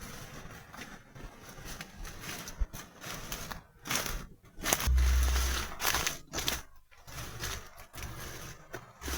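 Irregular rustling and scraping from handling things outdoors, with a heavy low thump on the microphone about five seconds in.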